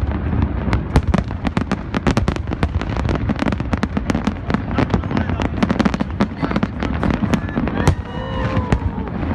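Fireworks display exploding in a fast, dense barrage of bangs and crackles, thinning a little near the end.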